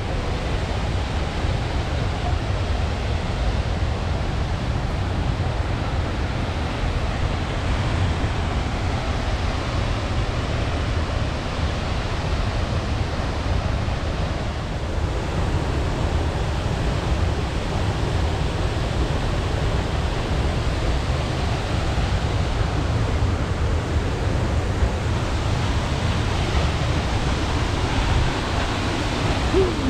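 Steady, even rush of a mountain waterfall's falling water, unbroken throughout.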